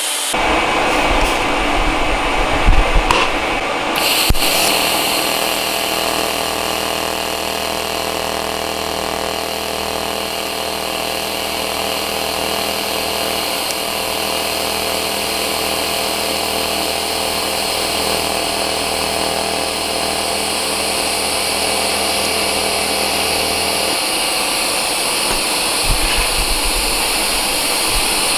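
Pulsed TIG welding arc on stainless tube, buzzing and hissing steadily while a wide gap is filled with filler rod. The tone changes sharply about four seconds in, and a low hum drops out near the end.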